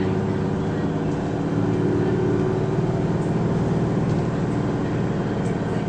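Isuzu Erga city bus's turbo-diesel engine running steadily, heard from inside the passenger cabin.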